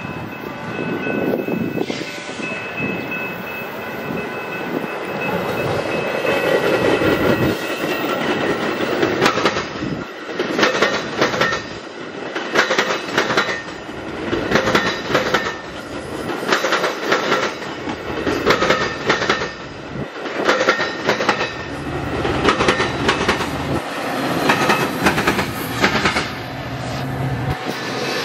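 Metra bi-level commuter train passing close by, a rumble building as it approaches and then a long run of rhythmic clickety-clack as the cars' wheels cross the rail joints.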